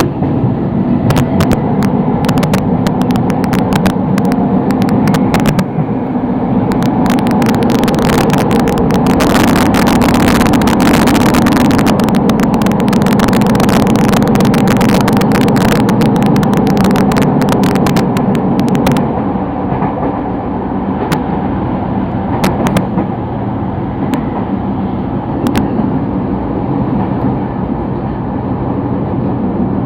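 Sotetsu Line commuter train running, heard from inside: a loud steady rumble of motors and wheels on the rails. Dense crackling rides over it for the first two-thirds, after which the running noise settles a little quieter.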